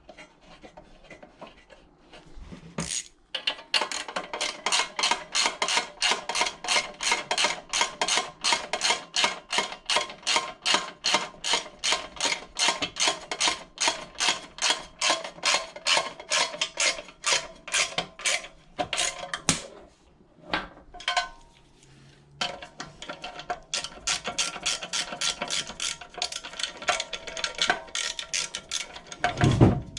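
Hand ratchet wrench turning bolts on a small engine, clicking rapidly at about four clicks a second in two long runs with a short pause in between.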